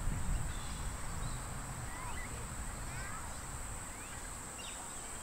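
Outdoor birdsong: small birds chirp several times over a steady high-pitched drone and a low rumble.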